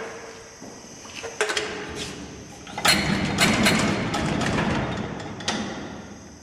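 Metal clinks and knocks of tools and parts being handled on a workbench, with a busier run of knocks about three seconds in and a faint steady high whine underneath.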